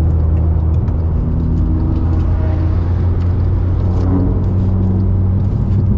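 Volkswagen Golf 6R's turbocharged four-cylinder engine running at low, steady revs, heard from inside the cabin as a constant drone.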